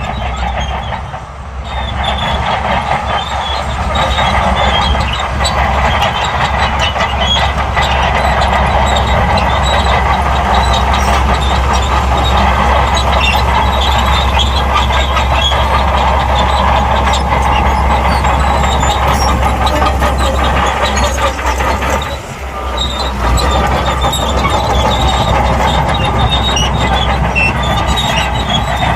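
Shantui crawler bulldozer working: its diesel engine runs steadily under load while the steel tracks clank. The sound dips briefly twice, about a second in and again about 22 seconds in.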